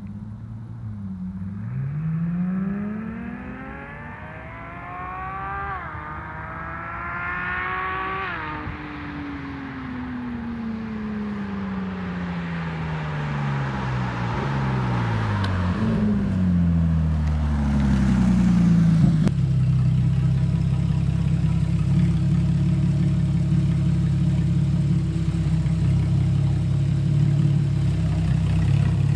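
Porsche 987.2 Cayman S flat-six through a partially finished DIY straight-pipe exhaust, accelerating hard with the revs climbing for about seven seconds, then falling as it comes off the throttle. It then settles into a steady low drone for the last third.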